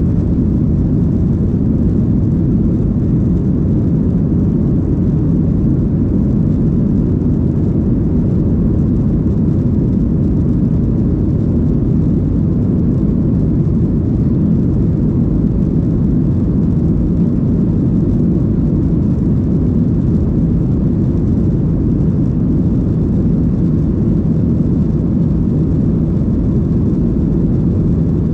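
Cabin noise inside a Boeing 737-800 airliner: a steady, loud, low rumble of engines and rushing air that holds unchanged throughout.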